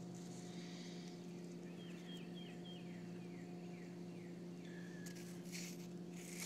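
A bird calling faintly: a run of short, falling chirps, about three a second, for a few seconds, over a low steady hum. Faint rustling near the end.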